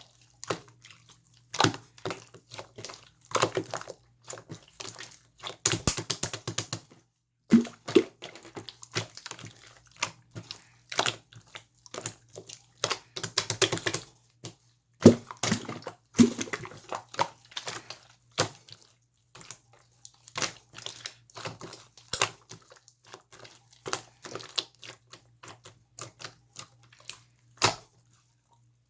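Large batch of slime being squeezed, poked and folded by hand, giving irregular wet clicks, pops and squelches, with dense runs of rapid crackling clicks about six and thirteen seconds in.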